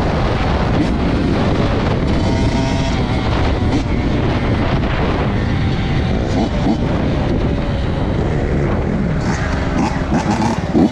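Honda CR85's 85cc single-cylinder two-stroke engine running under load as the dirt bike is ridden, its pitch rising and falling with the throttle, with wind noise on the microphone.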